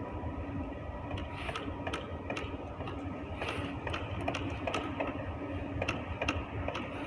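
Train running along an elevated viaduct: a steady low rumble with a faint engine hum, overlaid with irregular sharp clicks and knocks a few times a second.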